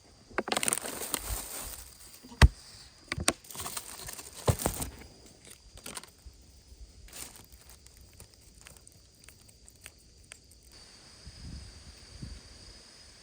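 Rustling and handling noises with a sharp knock about two and a half seconds in and a few more clicks and knocks, over a faint steady high insect drone.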